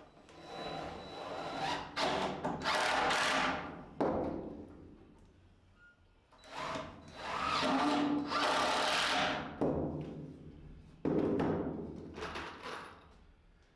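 Power drill working into wood in about five short runs of one to two seconds each, each starting suddenly, with brief pauses between.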